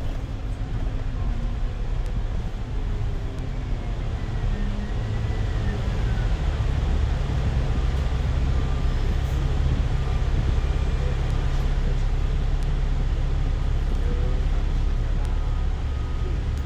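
Bus engine and road noise heard from inside a moving bus, a steady low rumble that grows louder about six seconds in. A few faint thin whining tones come and go above it.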